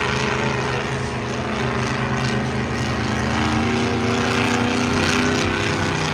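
Monster truck engine running steadily, its pitch climbing slowly in the second half.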